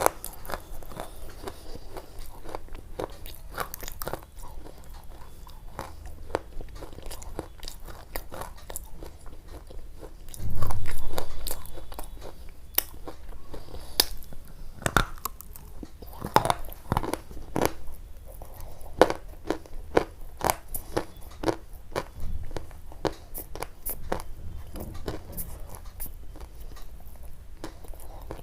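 Close-up crunching with many irregular sharp clicks, and one louder low thump about ten seconds in.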